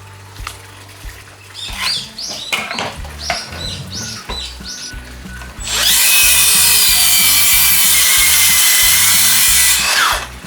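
A power tool runs loudly and evenly for about four seconds, starting and stopping abruptly, over background music.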